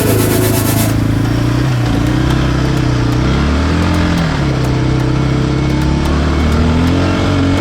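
ATV engine running under load, revving up and easing off twice, the pitch climbing about three and a half seconds in and again near the end.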